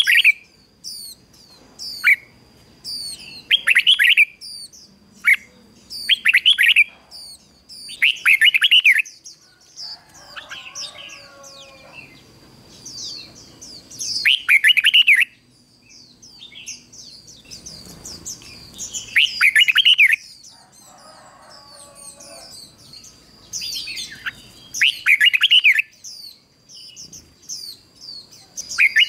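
Red-whiskered bulbuls singing: short, loud warbled phrases repeated every second or two, with quick high chirps between them.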